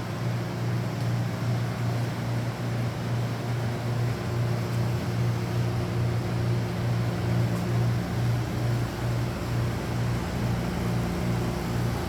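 A machine running steadily: a constant low hum with a few steady tones above it, over an even rushing noise.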